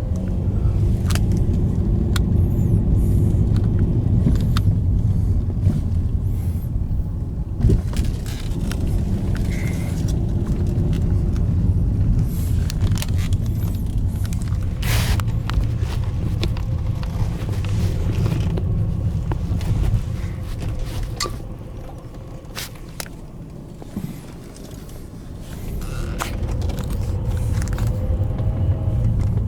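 Steady low rumble of a car driving, heard from inside the cabin. It grows quieter for a few seconds near the end, then builds back up.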